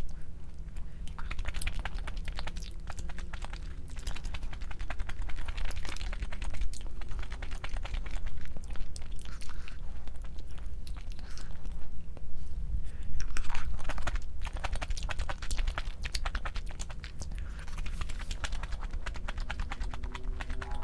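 Close-up eating sounds: chewing and biting food, with many small sharp clicks and wet mouth noises throughout.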